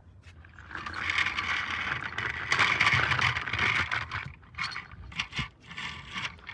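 A rough scraping, loudest from about one to four seconds in, followed by a few short clicks and knocks.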